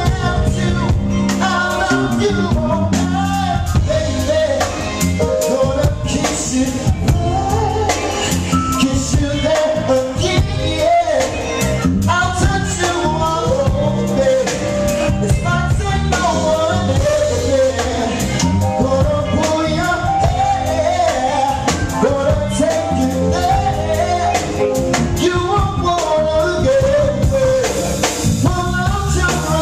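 Live R&B/soul band with drums backing a male lead singer in mid-song.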